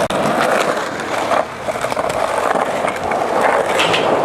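Skateboard wheels rolling steadily, a continuous rumbling hiss with a few faint clicks.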